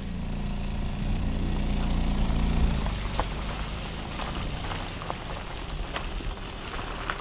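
Car engine running as the car moves off: a low rumble that swells for nearly three seconds and then fades, with scattered light ticks and crackles over it.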